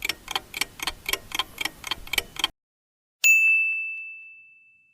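Clock-style countdown ticks, about four a second, stop about two and a half seconds in. After a short silence a single bright ding rings out and fades, marking the end of the answer time.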